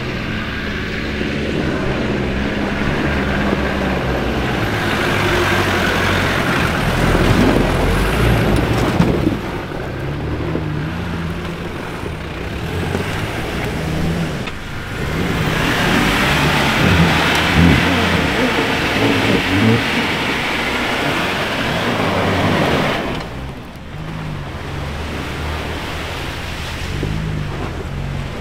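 Rally car engines revving and accelerating hard, the pitch rising and falling with the throttle. There are two louder, rougher stretches, a third of the way in and just past the middle.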